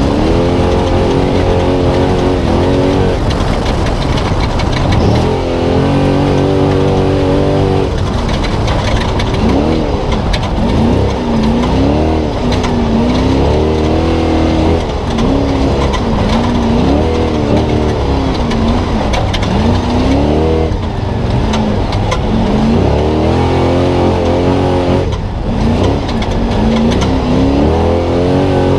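Spec Trophy Truck's V8 engine at race pace, heard from inside the truck, its revs climbing and dropping over and over with shifts and throttle lifts, amid frequent short knocks.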